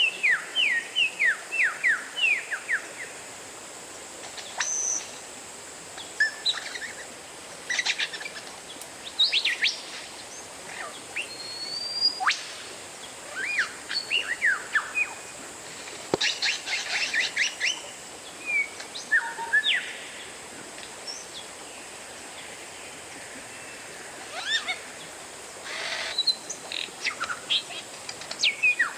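Oriental magpie-robin singing: bursts of quick, sharp whistled notes, many sliding downward, in short phrases separated by pauses, over a steady faint hiss.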